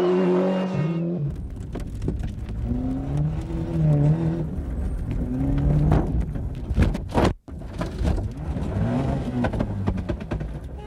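Rally car engine revving hard and rising in pitch again and again as it shifts up through the gears, with scattered sharp cracks. The sound cuts out abruptly for a moment about seven seconds in.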